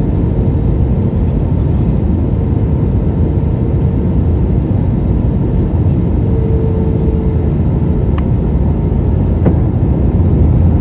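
Steady low drone inside a passenger aircraft cabin, with two faint clicks near the end.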